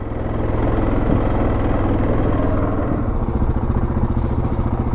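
2017 Yamaha Grizzly 700 ATV's single-cylinder engine running, building a little over the first second and then holding steady.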